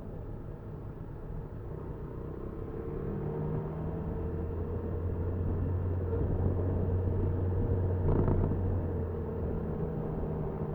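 Motor vehicle engine running steadily under road rumble, growing louder over several seconds and then easing off, with a short knock about eight seconds in.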